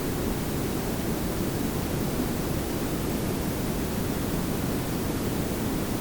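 Layered pink and brown noise: a steady, unchanging hiss over a low rumble, heaviest in the low end.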